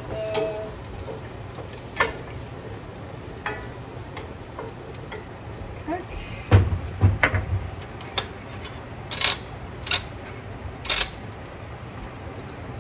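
Spoons and dishes clinking and knocking in a kitchen, with a run of heavier knocks about six and a half seconds in, over a steady low sizzle of food frying in butter and oil in the pan.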